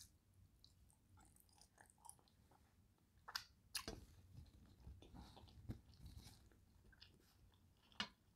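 Faint close-up chewing of a forkful of stuffed turkey leg: soft wet mouth clicks and smacks, a few louder ones around the middle and a sharp click near the end.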